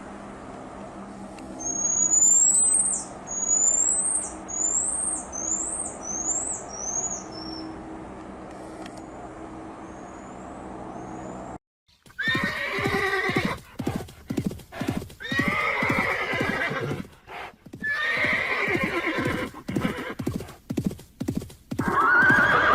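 A horse neighing and whinnying: a quick run of loud, pulsing calls, ending in one long arching whinny. Before it, under a steady low hum, comes a short series of about six high chirps, each a little lower than the one before.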